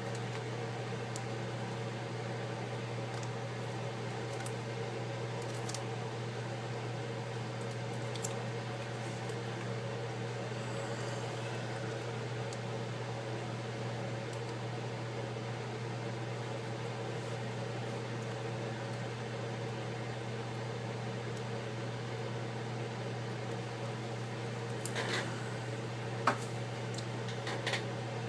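Steady electrical hum of a running appliance with several even tones. Near the end come a few small crinkling clicks and one sharper click.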